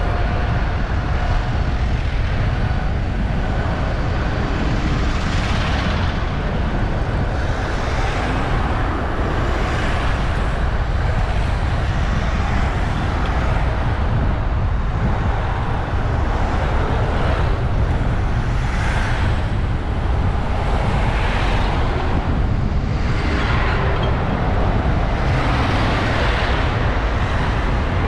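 Wind rumbling on a bicycle-mounted GoPro's microphone while cycling in road traffic, with vehicles whooshing past every few seconds.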